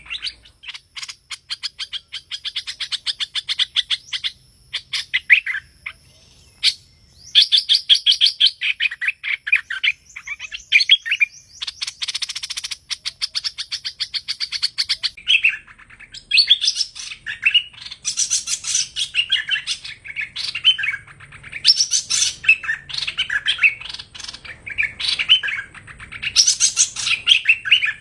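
A hoành hoạch songbird (a bulbul) calling and singing. It starts with fast rattling runs of chirps, then from about halfway changes to varied short, sharp whistled phrases. This is the kind of song recording played as a lure for trapping.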